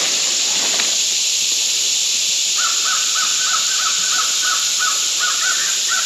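A bird calling a quick series of about ten short notes, starting a little before halfway, over a steady high hiss of outdoor background.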